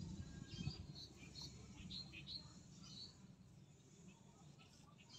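Faint short bird chirps, several in the first three seconds, over a low rumble.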